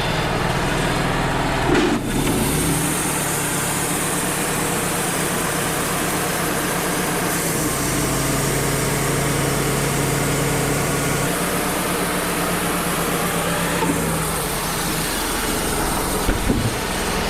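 Wood-Mizer LT35 portable sawmill running, its band saw blade cutting a board from a knotty white pine log with the engine under steady load. The cutting hiss comes in about two seconds in and eases off near the end.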